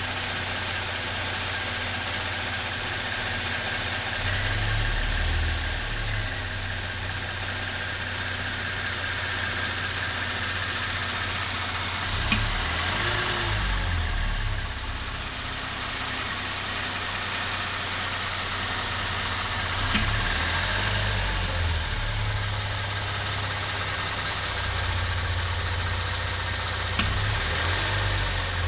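2013 Hyundai Genesis Coupe's 3.8 GDI V6 idling warm, rising a little each time light throttle is applied. Three sharp clunks, several seconds apart, come with the throttle blips. The owner traces them to the throttle body.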